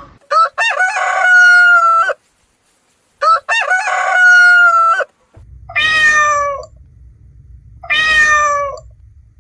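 A rooster crowing twice, each crow a few short notes running into a long held final note. Then two shorter calls that fall in pitch, over a low hum.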